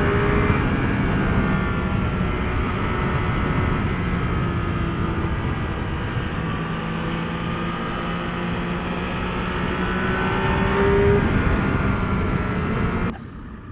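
Motorcycle engine running under way with steady wind rush; the engine note climbs for several seconds, then drops near the end. The sound cuts off suddenly just before the end.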